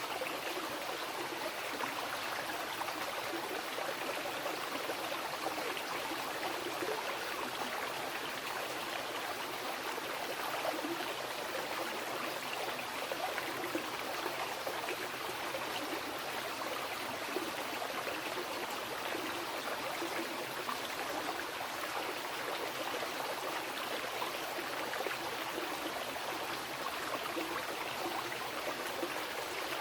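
Fast mountain river rushing and splashing steadily over rocks, an even dense water noise.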